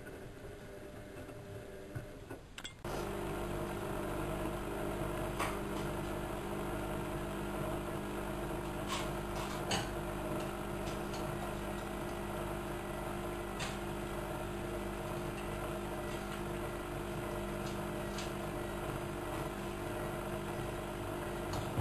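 Bauknecht WA1400 Dolphin washing machine running: about three seconds in, a steady mechanical hum with a low rumble starts abruptly and holds, with a few light clicks over it.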